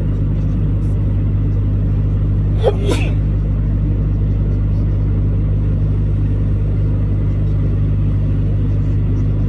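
Truck engine running at a steady speed, a constant low drone. About three seconds in there is one short, sharp sound over it.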